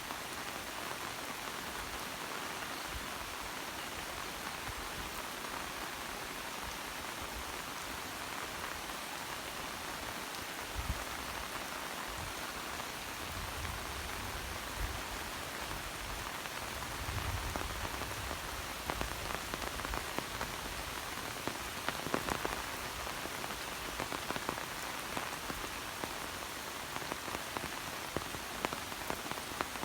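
Steady rain falling, an even hiss, with denser sharp drop ticks in the second half and a few low thuds near the middle.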